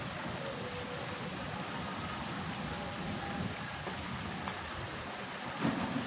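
Steady rain falling and pattering on surfaces, with one brief louder sound near the end.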